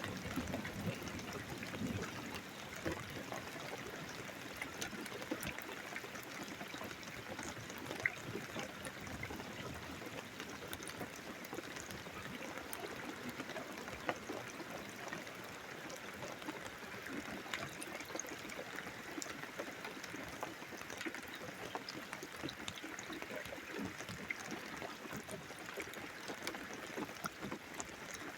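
Steady rain during a thunderstorm, falling and trickling, with many small drips and splashes.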